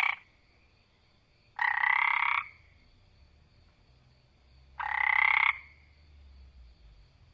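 An animal call, each one under a second long, repeated: the end of one call at the start, then two more about three seconds apart.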